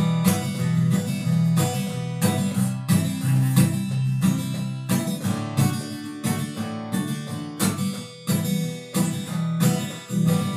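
Acoustic guitar strummed in a steady rhythm, playing the instrumental close of a song after the last sung line.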